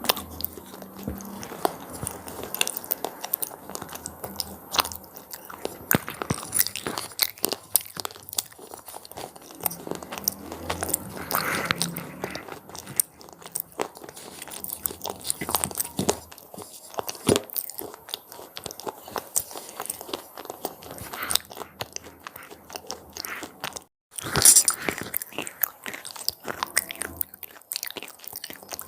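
Close-miked biting and chewing of crunchy red cheese pizza-flavoured snacks: a continuous run of sharp crunches. It breaks off briefly a little before the end, then comes back with its loudest crunch.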